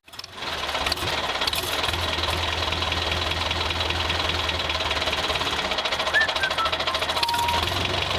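Diesel tractor engine running steadily with a fast, even knocking beat, coming in after a brief gap at the start. A short falling chirp sounds about six seconds in.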